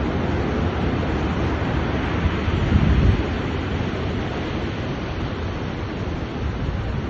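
Stormy Black Sea surf churning steadily, with wind buffeting the microphone. A louder low rumble swells about three seconds in.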